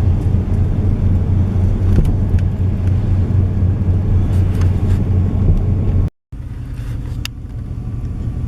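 Car cabin noise while driving: a loud, steady low rumble of engine and tyres. It cuts off about six seconds in, and a quieter steady rumble follows with one sharp click.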